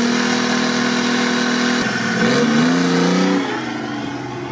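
Off-road tube-frame prototype's engine revving hard and held high for nearly two seconds, then briefly easing off. It revs up again, and the revs fall away about three and a half seconds in.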